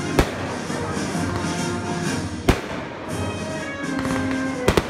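Fireworks bursting with sharp bangs: one just after the start, one midway, and two in quick succession near the end, over steady music.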